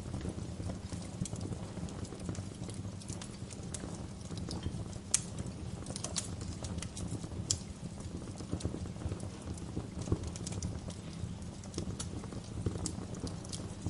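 Wood fire crackling in a fireplace: a steady low rumble of burning with irregular pops and snaps, a few of them sharper and louder.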